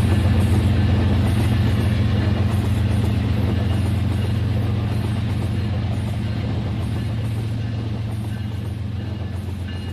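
Battery-powered toy train running on its track: a steady motor hum with fast, fine rattling from the wheels, slowly getting fainter.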